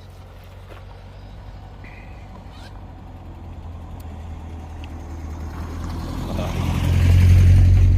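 A car, taken by the onlooker for an old Mark III Ford RS Turbo, driving up with a low engine hum that grows steadily louder. It is loudest near the end as it passes close.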